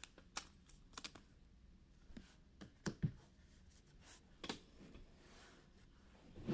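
Faint, scattered clicks and light rustles of trading cards and card packs being handled and sorted on a table, with no steady sound between them.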